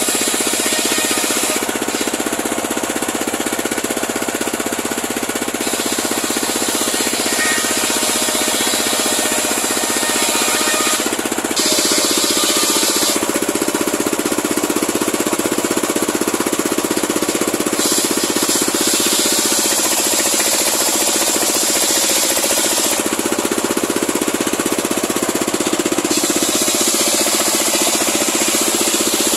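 Homemade engine-driven circular sawmill running steadily as it rips a large pule log. A high hiss comes and goes in spells of a few seconds over the steady machine noise.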